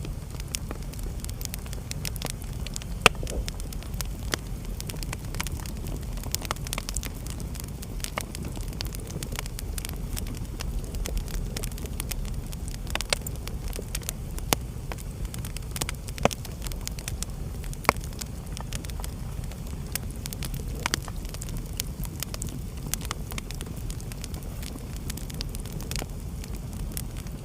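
Wood fire burning in a fireplace: a steady low rumble of flame with constant crackling and occasional louder pops.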